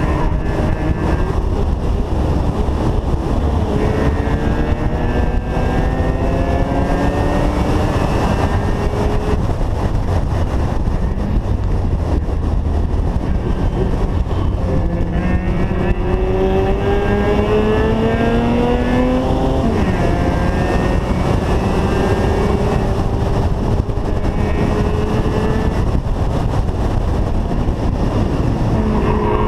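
Mazda RX-7 rotary engine pulling hard on track, revs climbing several times and dropping sharply at a lift or gearshift about two-thirds through, over steady wind and road noise.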